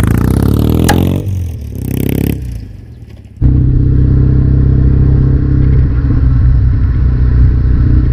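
Kawasaki W650 parallel-twin motorcycle engine through aftermarket Cabton-style mufflers: the engine note shifts in pitch and fades over the first three seconds, then cuts abruptly to steady running.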